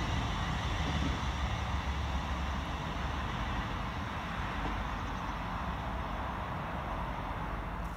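ScotRail Class 380 electric multiple unit running away along the track, a steady rumble and rail noise that slowly fades as it recedes.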